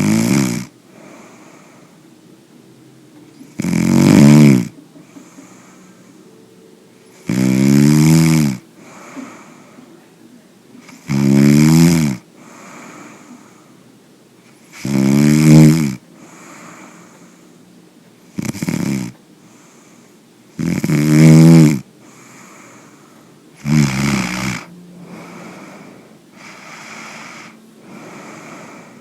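Loud snoring: a rough, pitched snore about every three to four seconds, eight in all, each lasting about a second, with soft breathing between.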